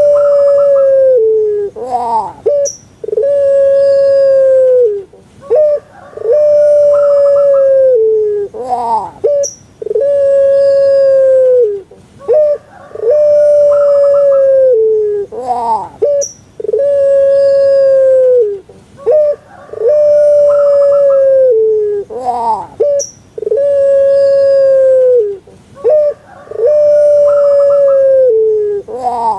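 Puter Pelung dove (domestic collared dove, Streptopelia risoria) cooing over and over, about every three seconds: a couple of short notes and a quick upward glide, then one long held note that drops away at the end.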